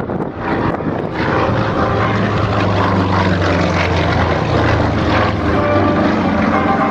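Propeller-driven aerobatic aircraft, Yak-52s with M-14P nine-cylinder radial engines, running at power. The engine sound grows louder about a second in as the planes come in, then holds steady.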